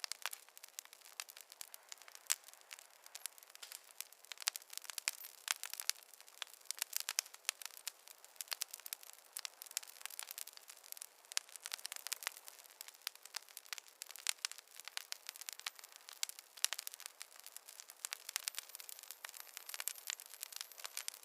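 Fireplace fire crackling: a dense, irregular run of small pops and snaps over a faint hiss, with no low rumble.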